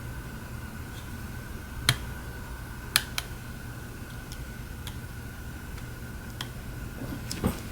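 Scattered small clicks and taps of hand tools working on a phone, about six in all, the loudest about two, three and seven and a half seconds in, over a steady low hum with a faint high tone.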